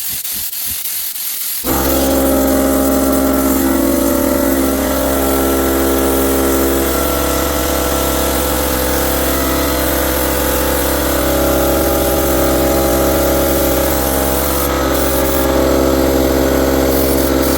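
Air spray paint gun hissing as a light coat of paint is sprayed. About two seconds in, an air compressor starts and runs loud and steady under the hiss, with a steady motor hum.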